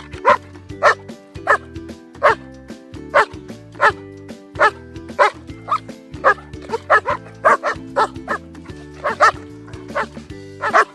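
Greyhound barking repeatedly, a string of short sharp barks about one to two a second, over background music with steady held notes.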